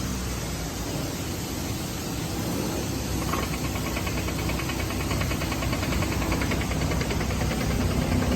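2011 Dodge Caravan's 3.6-litre V6 idling steadily after the revs drop back, with a fast, light, even ticking joining about three seconds in.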